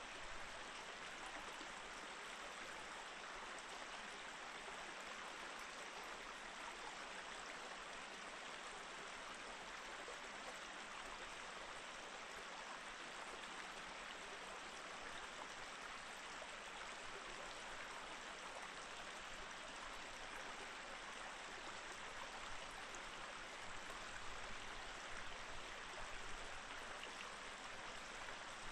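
Small mountain stream flowing over rocks, a steady rush and babble of water.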